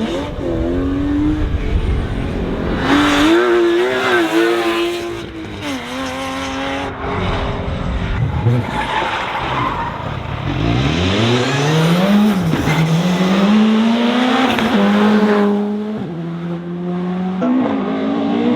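Rally car engines at high revs, loud throughout. About eleven seconds in, one engine note climbs steeply and then drops in steps as the car changes gear.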